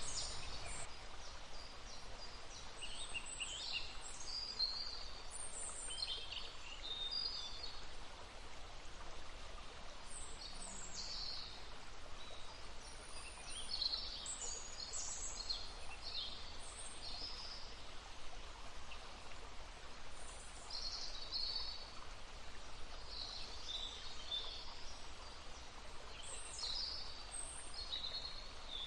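Small stream babbling steadily, with songbirds calling and chirping repeatedly over it in short high phrases.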